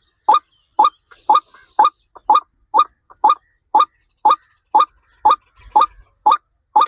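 A bird giving one short call over and over, evenly spaced at about two calls a second.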